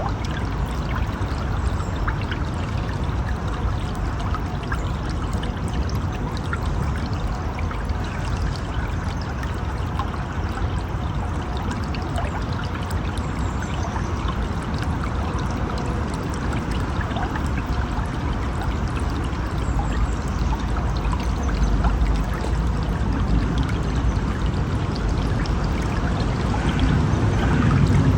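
River water flowing in a steady, continuous rush, a little louder near the end.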